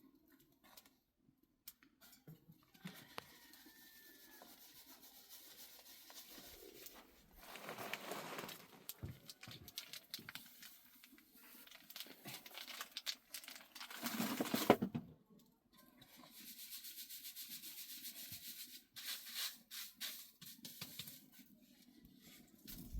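Soft rubbing, scraping and crinkling of hand-handling sounds that come and go, with louder stretches about eight and fourteen seconds in.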